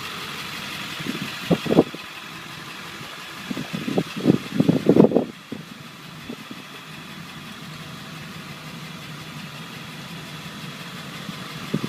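7.3-liter Power Stroke V8 turbo diesel idling steadily, with a few short, louder irregular bursts over it about two seconds in and again around four to five seconds in.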